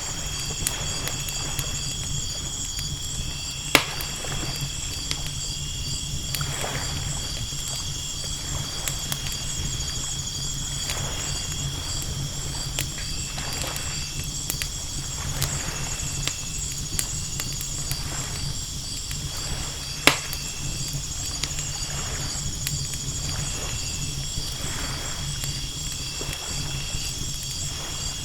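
Night ambience of ocean waves washing in steadily under a low rumble, with a campfire crackling and two sharp pops, about four seconds in and near twenty seconds in. Insects chirp steadily above it all.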